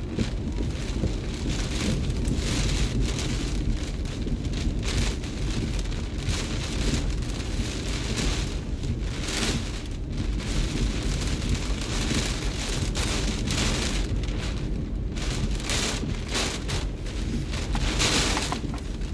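Heavy hurricane rain and gusting wind: a continuous loud noise with a deep rumble underneath, swelling and easing with the gusts.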